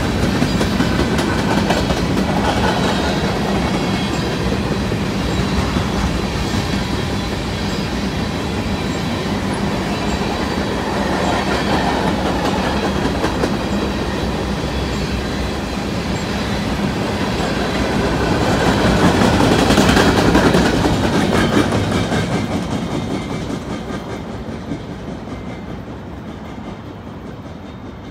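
Covered hopper cars of a grain train rolling past close by, steel wheels clicking over the rail joints with a steady rumble. It swells about two-thirds of the way through, then fades as the last car passes and the train moves away.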